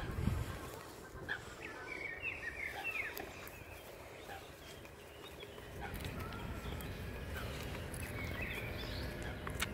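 Birds calling in short chirps, a cluster a second or two in and again near the end, over a steady low rumble of outdoor background noise.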